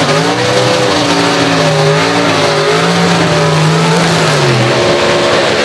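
Pro Stock drag-racing cars' naturally aspirated V8 engines revving loudly, the pitch rising and falling repeatedly and dropping about four and a half seconds in, then holding steady near the end.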